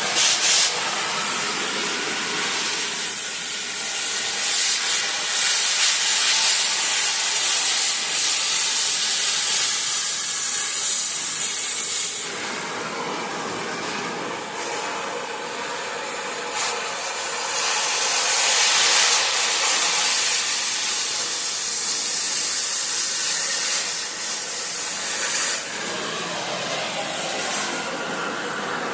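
Oxy-acetylene cutting torch hissing as it blows the rusted bolts out of a cast iron exhaust manifold. The hiss grows louder and quieter in stretches: strongest through the first dozen seconds and again about two-thirds of the way in.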